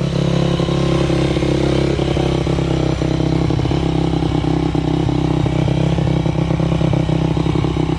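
Carbureted dirt bike engine running at a steady idle, just after starting on the first kick.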